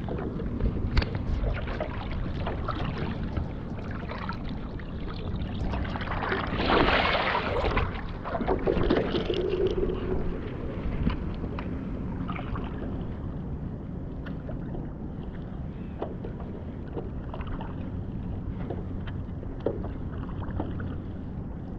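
Water splashing and lapping against a small paddle craft, with scattered light knocks. A louder rush of noise comes about seven seconds in.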